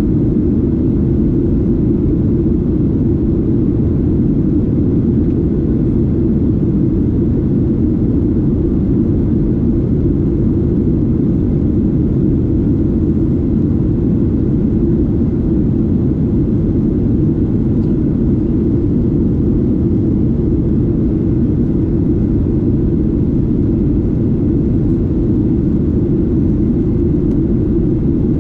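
Steady, low-pitched cabin roar of a Boeing 737-8 in flight, heard from a seat near its CFM LEAP-1B engine: engine and airflow noise running without change.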